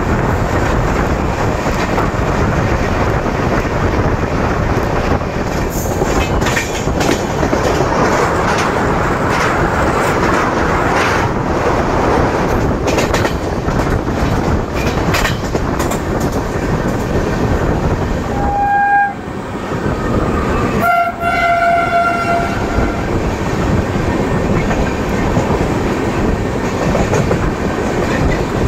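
Passenger train running on the rails, heard from inside a coach: a steady rumble with wheel clatter. A train horn sounds briefly about two-thirds of the way through.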